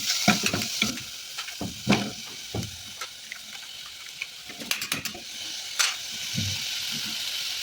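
Chopped onion sizzling in hot olive oil in a pan, with a steady hiss and scattered knocks and scrapes of stirring against the pan.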